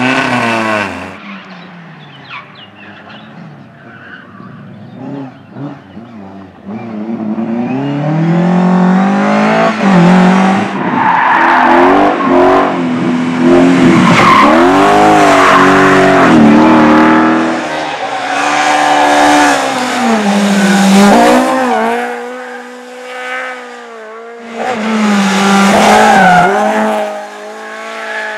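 Rally car engine revving hard as the car approaches and passes, its pitch climbing and dropping again and again with gear changes and lifts off the throttle. After a short lull it revs hard once more near the end.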